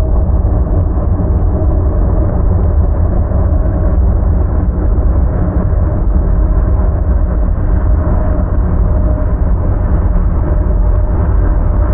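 Freight train passing with a loud steady rumble, mixed with blizzard wind buffeting the microphone.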